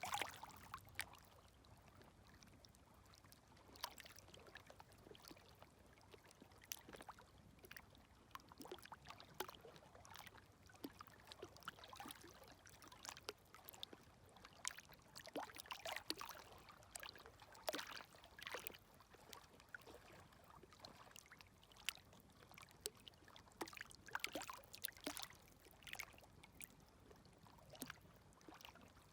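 Faint, gentle micro-waves lapping at the shoreline: soft trickling splashes with fine crackle that come in small clusters every few seconds over a low hiss.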